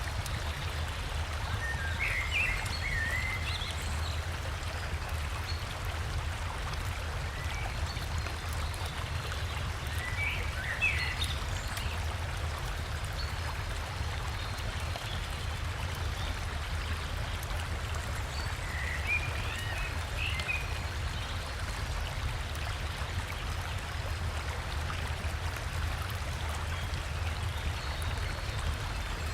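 Steady rushing of a river, heavy in the low end, with a bird giving a short chirping phrase four times, roughly every eight or nine seconds.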